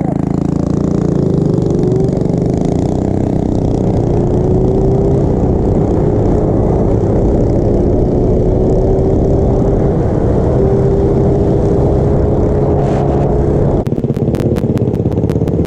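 Small motorbike engine running under way: its pitch climbs over the first few seconds as it speeds up, then holds steady. Near the end the sound changes abruptly to a pulsing beat.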